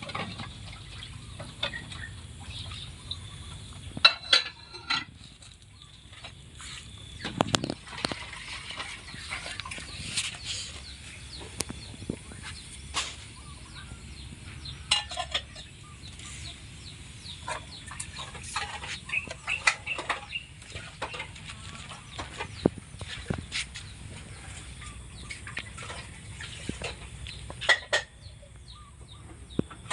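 Irregular short clicks and knocks, some with a brief pitched note, over a steady low background hum.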